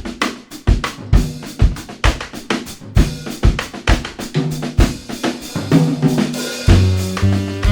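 Jazz drum kit playing an opening groove of bass drum, snare and hi-hat strokes. Pitched low notes join about halfway, and fuller held chords from the band come in near the end.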